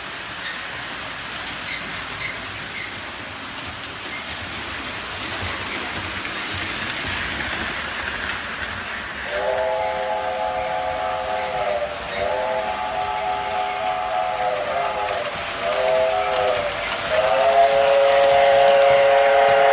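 Model train running on the layout track, its running noise slowly growing louder, then the locomotive's sound-system horn blowing the grade-crossing signal: two long blasts, a short one and a final long one.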